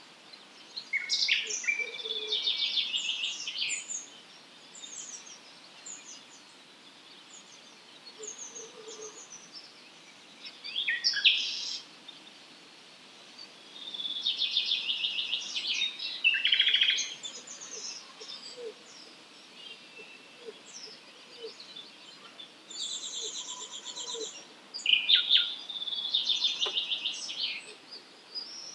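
Wild songbirds singing: four phrases of rapid, trilled, buzzy notes, each lasting a few seconds, with short high chirps and twitters scattered between them.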